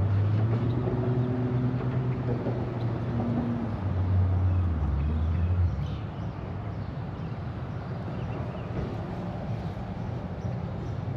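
A low droning hum, like a motor running, over a steady outdoor background noise. The hum drops in pitch about four seconds in and cuts out near six seconds, leaving only the background noise.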